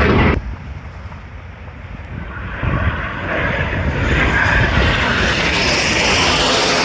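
Military aircraft engine noise. A loud run of it cuts off abruptly less than half a second in. A quieter aircraft sound then builds over the next few seconds and stays loud.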